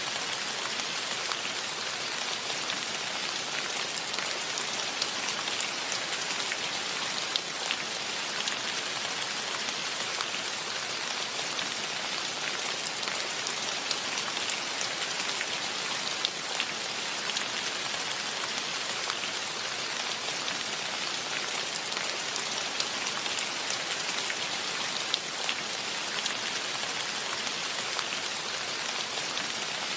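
Steady rain falling, a dense even hiss with many distinct drop ticks spattering on surfaces.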